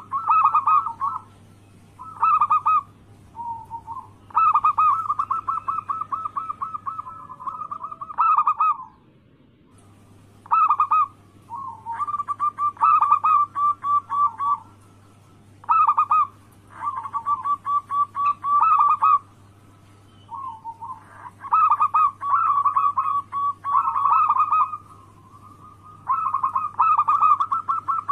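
Local zebra dove (perkutut) cooing: a run of rapid, rolling coo phrases, each one to a few seconds long, with short pauses between them, over a faint steady low hum.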